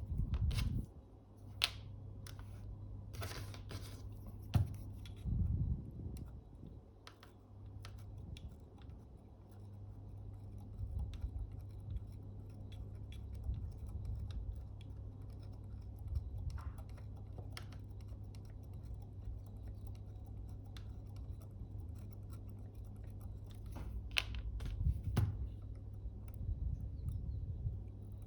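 Small repair tools scraping and clicking inside an opened Fuji GA645 camera while sticky glue is removed from the shutter flex cable. Scattered light clicks and scratches, with louder clusters near the start and near the end, over a steady low hum.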